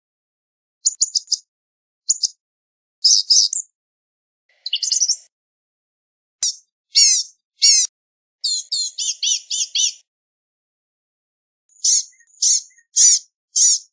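Blue-gray gnatcatcher singing: short, high, thin phrases of quick notes with pauses between them. Near the end comes a run of repeated notes, about two a second.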